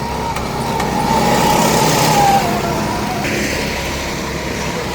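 Burnout truck's engine revving hard with a wavering tyre squeal as it drifts, swelling to its loudest a little past two seconds in.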